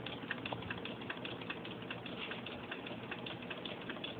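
Homemade Stirling engine running on its first run, its moving parts making rapid, even clicking.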